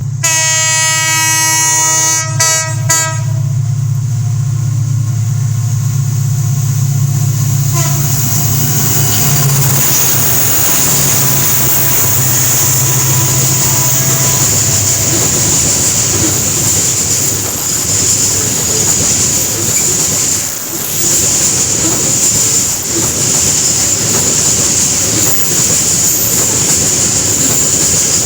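Babaranjang coal train passing. The locomotive's horn sounds for about three seconds, with a couple of short breaks near its end. The locomotive's engine hum then carries on until about halfway, and after that a long string of coal wagons rolls by with steady rail noise and a high whine.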